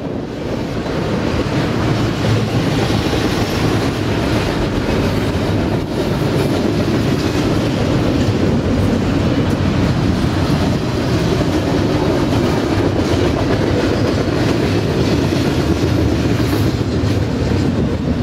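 Double-stack container well cars of a freight train rolling past, their steel wheels running on the rails in a loud, steady rumble that builds up over the first second.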